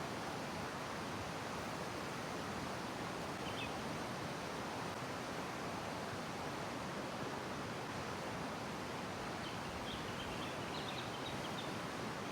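Steady rushing of a fast-flowing river, with a few faint bird chirps about three seconds in and again near the end.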